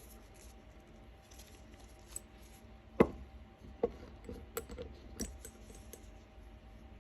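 Close-miked ear-cleaning tool handling: faint scratching, then a sharp tap about three seconds in, followed by a second click and a few lighter clicks.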